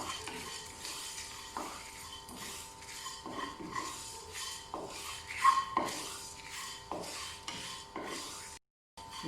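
A utensil stirring and scraping dry spices and grated coconut around a dry pan as they roast, in repeated short scrapes. The sound breaks off briefly near the end.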